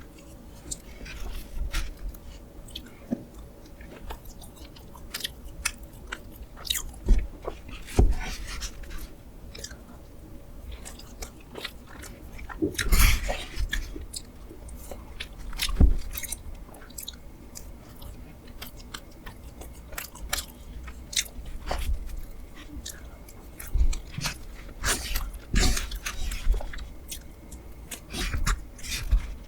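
Close-miked eating sounds: chewing and biting a spoonable ice box cake, with many short sharp clicks throughout and a few louder smacks.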